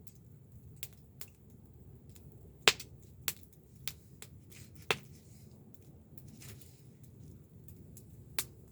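Wood fire crackling: irregular sharp pops and snaps over a low steady rush of flame, with the loudest pops about a third and about halfway through.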